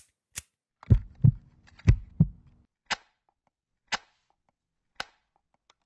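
Heartbeat sound effect opening a song: two deep double thumps over a low hum, then single sharp clicks about once a second.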